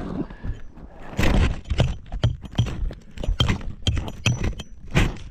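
Rock being broken and dug out in a tight cave passage: irregular knocks and clatters of stone on stone, several a second.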